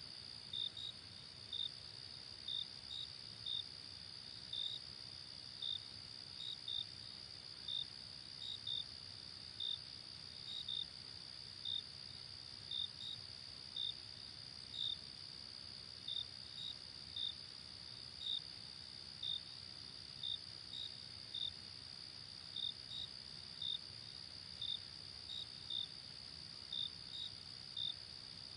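Crickets at night: a steady high trill, with short chirps over it coming irregularly about one or two a second, some in quick pairs.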